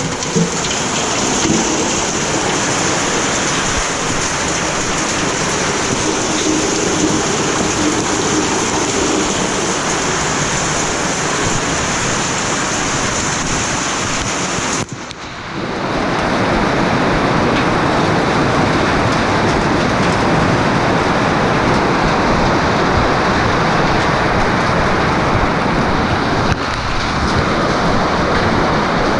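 Heavy rain pouring steadily, with a short dip about halfway through after which it comes back a little louder.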